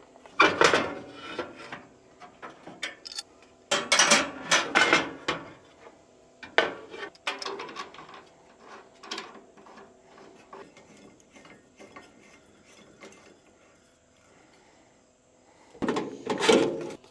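Handling noises: clattering, clicking and rubbing in a few separate bursts, the loudest about half a second in and around four to five seconds, another near the end.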